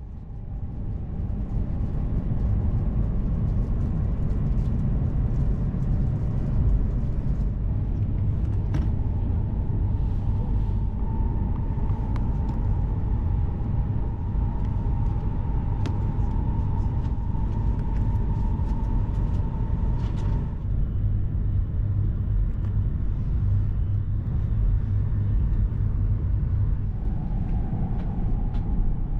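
E2 series Shinkansen train running, a steady low rumble. A steady whine comes in about ten seconds in and stops about ten seconds later.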